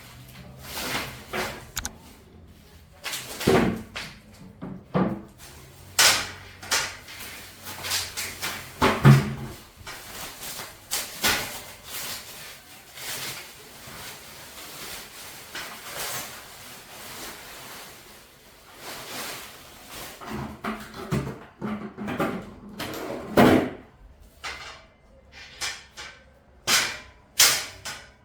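Irregular knocks and clunks, one every second or so, in a small room, like doors, drawers or cupboards being handled.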